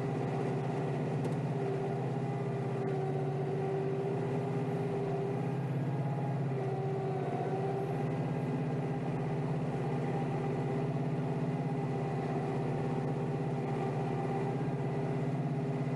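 Kioti DK5320SE tractor's diesel engine running steadily, heard from inside the tractor's cab.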